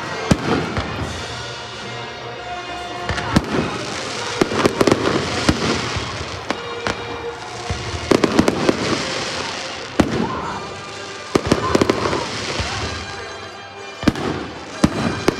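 Aerial firework shells bursting one after another, a string of sharp bangs with a noisy crackle between them.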